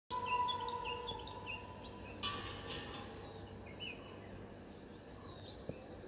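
Small birds chirping repeatedly over a steady outdoor background hum, with a steady high tone that fades out about two seconds in.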